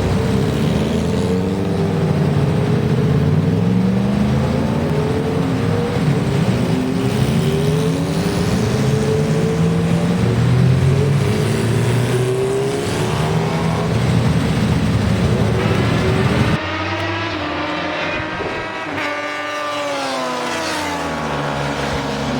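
Superbike engines revving hard on a race track, the pitch climbing and dropping again and again through the gears. About 16 seconds in, the sound cuts abruptly to a quieter engine that accelerates with rising pitch and then fades.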